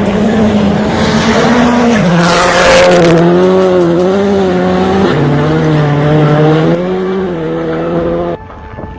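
A car engine running hard at high revs, its pitch wavering and stepping as it goes, with tyre squeal. The sound cuts off abruptly near the end.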